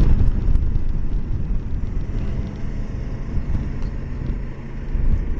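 Kawasaki Versys 650's parallel-twin engine running while riding, with a low rumble of wind and road noise. The level dips briefly about four and a half seconds in, then picks up again.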